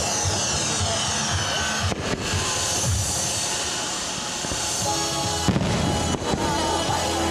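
Fireworks display: sharp bangs of bursting shells and a dense crackle, with music playing alongside.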